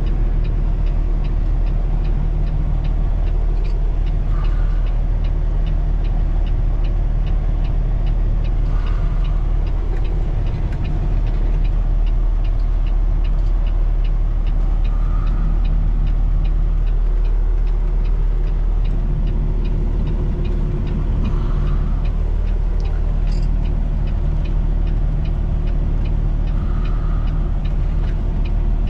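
Peterbilt 389 semi truck's diesel engine running steadily at low revs while the truck is slowly manoeuvred into a parking spot, with a regular light ticking over the drone.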